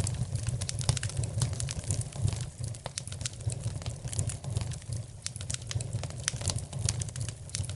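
Wood fire crackling, with many quick irregular pops and snaps over a steady low rumble.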